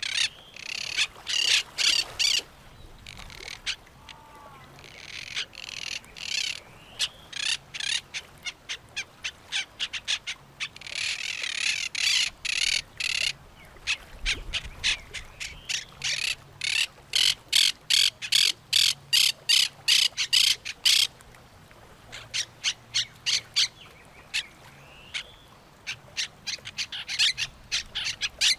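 Birds calling in rapid runs of short, harsh notes, several a second, with brief lulls between the runs.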